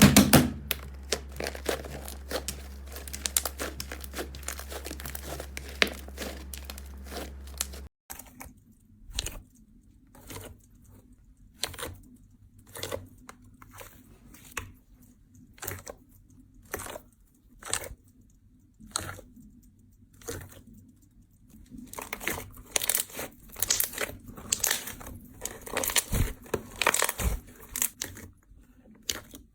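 Slime being squeezed and worked by hand: a dense run of crackling clicks, then after a cut at about eight seconds, single sharp clicks about once a second that turn into denser crackling near the end.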